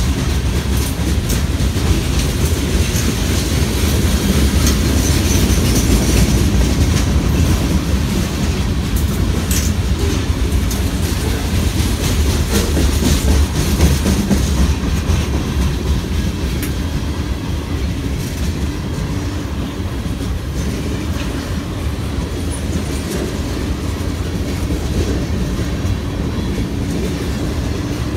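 Freight train cars rolling past, boxcars and then centerbeam flatcars: a steady rumble of steel wheels on rail with clicking over the rail joints, easing slightly about halfway through.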